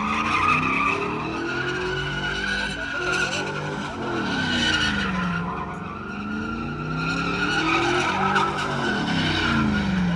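Truck doing a burnout: the spinning tires squeal steadily while the engine revs climb and drop back about twice.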